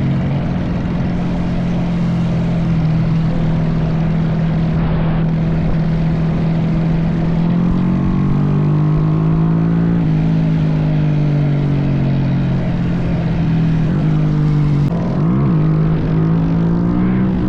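Small single-cylinder minibike engine running at a steady cruising speed, its note dipping slightly and rising again. About fifteen seconds in, a second engine note briefly swoops down and back up. Wind rumbles on the microphone.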